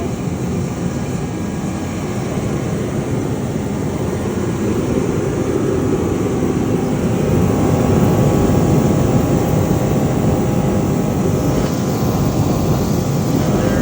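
BILT HARD 135,000 BTU forced-air torpedo heater running on No. 2 diesel: the steady rushing noise of its fan and burner, swelling somewhat louder partway through.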